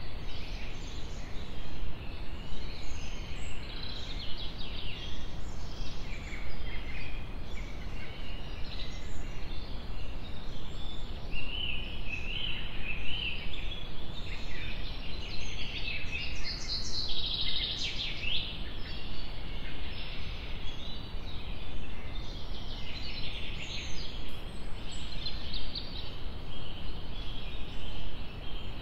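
Many small birds chirping, their calls overlapping continuously and busiest about two-thirds of the way through, over a steady low outdoor rumble.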